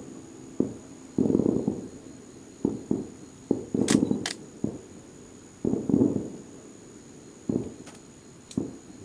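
Aerial firework shells bursting: a string of sudden booms, about eight of them at uneven intervals, with a few sharp cracks around the middle and near the end.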